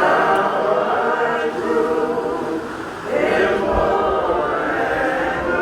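A choir singing in several voices, holding long notes, with one phrase ending and a new one starting about three seconds in.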